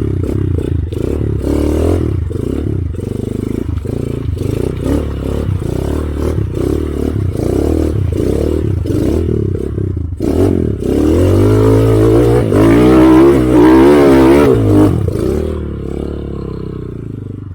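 Motorcycle engine revving hard under load, the pitch wavering up and down. About ten seconds in the revs climb higher and louder, then ease off near the end.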